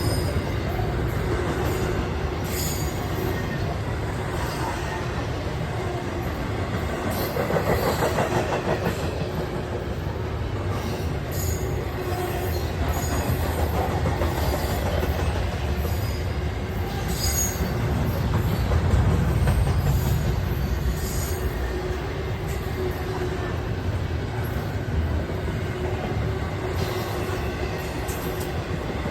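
A train rolling past, its wheels rumbling steadily on the rails, with short high-pitched wheel squeals now and then.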